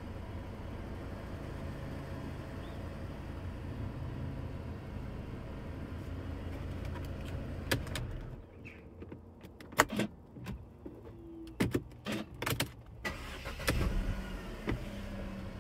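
Mercedes-Benz C-Class W204 engine running steadily, then cutting out about eight seconds in. A series of sharp clicks from the key and ignition follows, and near the end the engine cranks, starts again and settles to idle. It now starts normally with its faulty electronic steering lock fixed.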